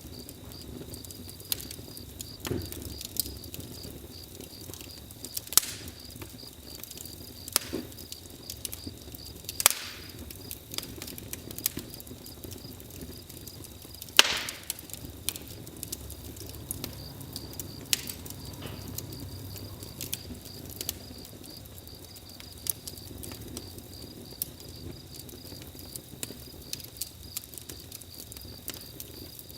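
Campfire crackling, with sharp pops at irregular intervals over a low, even hiss, and crickets chirping steadily behind it.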